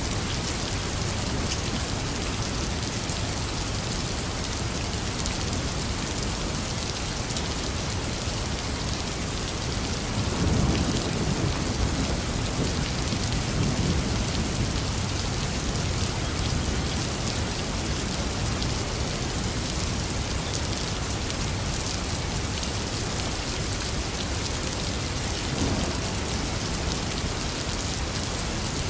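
Heavy rain falling steadily, with a low rumble of thunder rolling in about a third of the way through and fading over several seconds, and a brief fainter rumble near the end.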